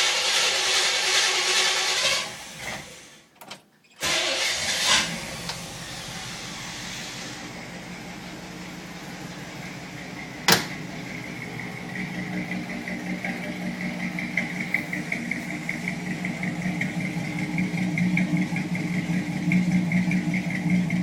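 Chevy 350 small-block V8 running through Flowmaster dual exhausts. It is loud for the first two seconds, dies away to a brief gap, then comes back and idles steadily, growing a little louder toward the end, with one sharp click about halfway through.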